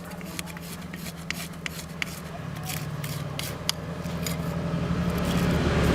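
An engine running with a steady low hum that grows steadily louder, with scattered light clicks and taps over it.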